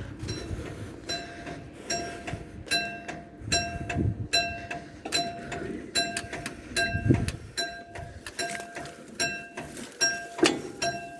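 Level crossing warning alarm sounding a repeated short ringing tone, about two strikes a second, over a low background rumble.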